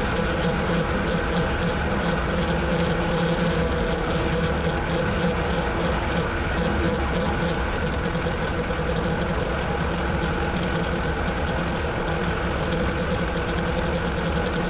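Tractor engine running steadily while it drives a rotary cutter (bush hog) mowing.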